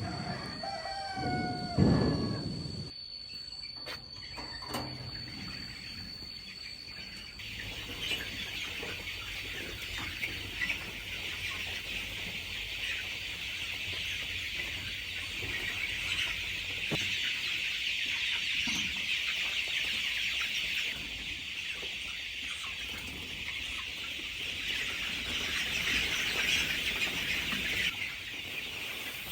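A rooster crows in the first couple of seconds. Then a flock of chickens keeps up steady clucking and calling, with a dense high chatter from about seven seconds in.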